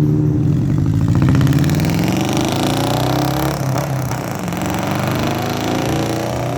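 Exhaust note of a Mitsubishi Colt T120SS pickup fitted with an AJN aftermarket muffler. The engine runs steadily, then revs up with a rising pitch from about a second in and carries on at higher revs.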